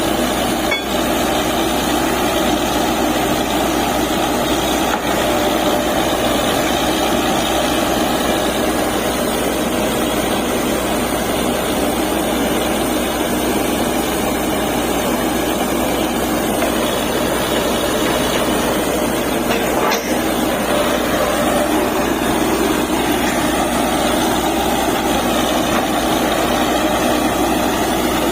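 DTH borewell drilling rig running steadily: truck engine and compressor noise, loud and unbroken.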